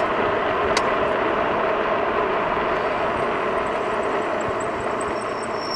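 Wind rushing over an unshielded microphone with the steady road and drive noise of a Jansno X50 electric bike riding along.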